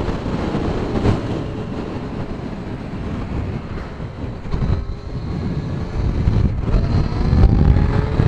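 Strong headwind buffeting the microphone of a moving motorcycle, over the Kawasaki Z900's inline-four engine note. The wind eases somewhat mid-way, then the engine note rises as the bike accelerates near the end.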